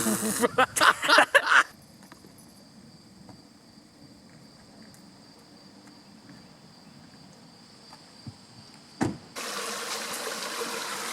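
Voices and laughter briefly, then a quiet stretch with a faint steady high-pitched whine. About nine seconds in there is a click, and then a small stream is heard running steadily.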